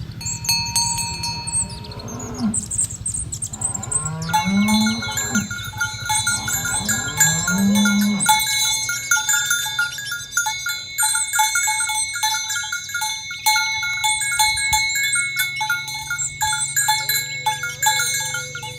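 Cattle mooing several times in the first half, with bells worn by the cows clinking and ringing repeatedly from about four seconds in.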